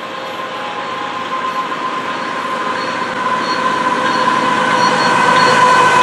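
Diesel-led CN freight train approaching, its rumble growing steadily louder as the lead locomotive nears, with a steady high ringing tone running through it.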